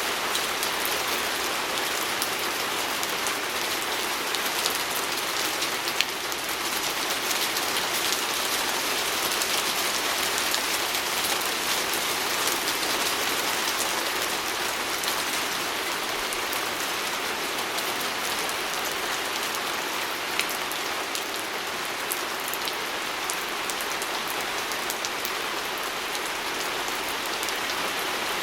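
Steady rain pattering on a window pane, an even hiss of drops with scattered individual drop ticks.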